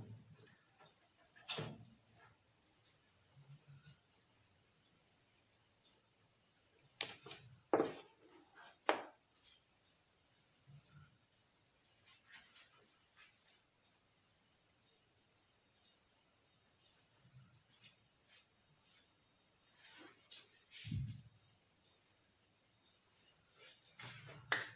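Crickets chirping in repeated runs of rapid, evenly pulsed high chirps over a steady high-pitched insect tone, with a few scattered clicks and knocks of handling.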